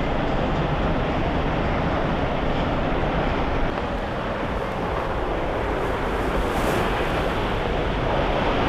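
Steady rushing wind buffeting the microphone outdoors, easing slightly a little before halfway.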